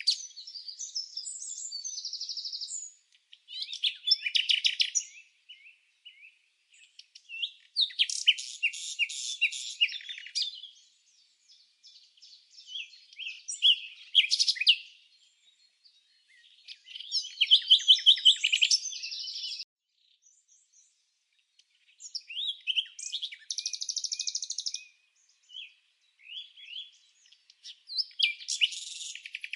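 Songbird singing phrases of high chirps and fast trills, each a couple of seconds long, with short pauses between them.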